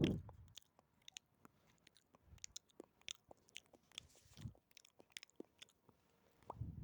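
Close-miked ASMR mouth sounds: scattered wet clicks and smacks, irregular and quiet, with a heavier low thud right at the start and another at the very end.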